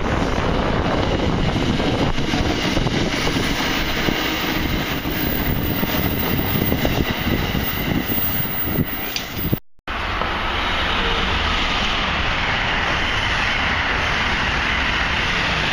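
Passenger trains passing at speed alongside a station platform: a steady loud rush of wheels on rail and moving air, broken by a momentary cut to silence about ten seconds in, after which another train rushes past close by.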